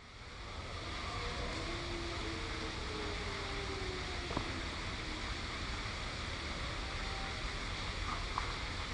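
Steady outdoor background noise with a low, gusty wind rumble on the microphone, fading in over the first second. A few faint, drifting tones and light ticks sit underneath it.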